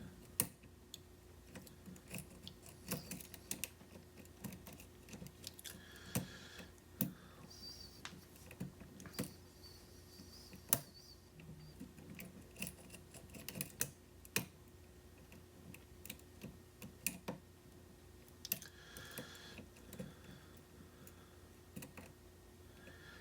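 Irregular small metallic clicks and taps of a lock pick and tension wrench working the pin stack of a challenge lock, over a faint steady hum.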